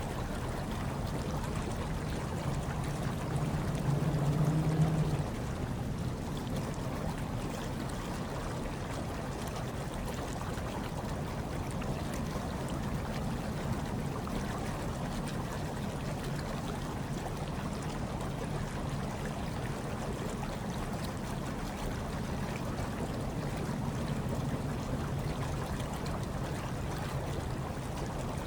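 Hot tub water bubbling and churning in a steady low wash, with a brief louder low hum about three to five seconds in.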